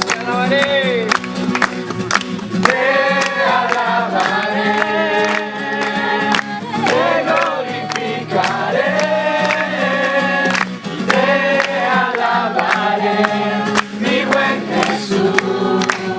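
A group of people singing a song together in chorus, with instrumental accompaniment.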